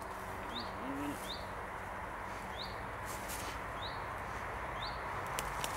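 A small bird calling with short rising chirps, roughly one a second, over a steady outdoor hiss. A few brief clicks and rustles come near the end.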